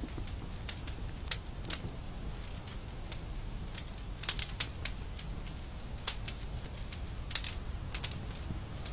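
Wood fire crackling in a fireplace: irregular sharp crackles and pops over a steady low rumble, with the loudest pops about four seconds in and again near the end.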